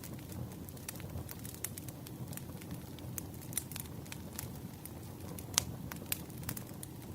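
Wood fire crackling: a steady low rumble with frequent irregular sharp pops and snaps, one louder pop about two-thirds of the way in.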